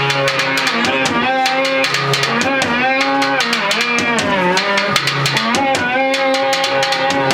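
A band playing a loud song live: a drum kit beating fast, even hits over guitar and a melodic line that slides up and down in pitch.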